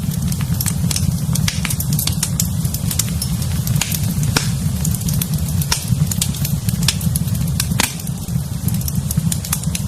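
Wood fire burning in a fireplace, crackling and popping irregularly with many sharp snaps over a steady low rumble.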